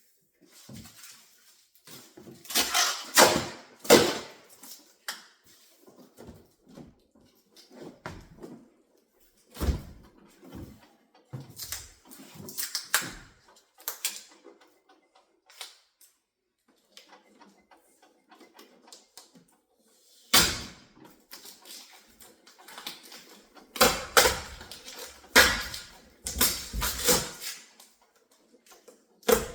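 Handling noises from unpacking a new refrigerator: irregular clicks, knocks and clunks with brief scraping. A few louder knocks come a few seconds in and again about two-thirds through, and a busy run of clunks comes near the end.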